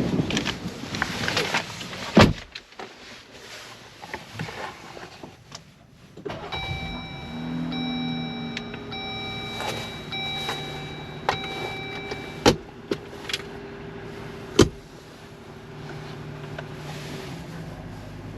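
Getting into and starting a Jeep Gladiator: handling noises and a door shutting about two seconds in, then the engine starts about six seconds in and settles to a steady idle under steady electronic warning tones that stop near the end. Two sharp clicks follow, such as a seatbelt latching.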